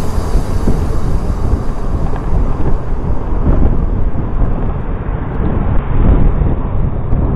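Wind buffeting an action camera's microphone while riding a motorcycle: a loud, steady rumbling noise with the ride's road noise underneath.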